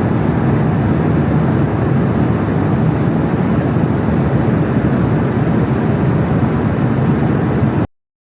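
Loud, steady rumble of jet airliner engines and airflow heard inside the cabin, cutting off suddenly near the end.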